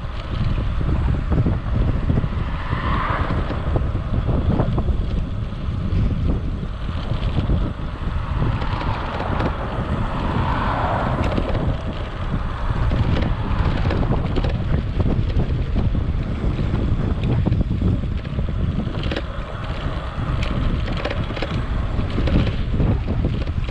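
Wind buffeting a chest-mounted GoPro microphone that has no wind muff while riding an e-bike: a steady rumbling rush, with two brief swells higher up, about three seconds and ten seconds in.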